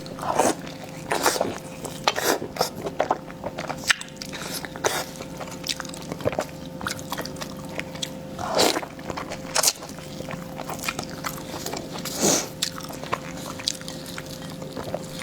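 Close-miked chewing and biting of food: quick wet clicks and smacks of the mouth, with a few longer, louder bites spread through.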